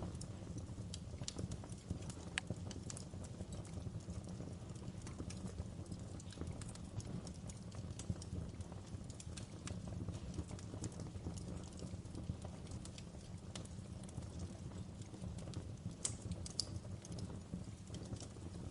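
Wood fire burning in a fireplace: a steady low rush of flames with irregular crackles and pops of burning logs, a few sharper pops near the start and toward the end.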